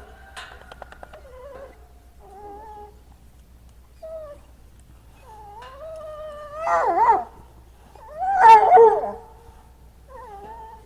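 Goats bleating: a run of short and longer pitched calls, two of them loud and quavering, about seven and eight and a half seconds in.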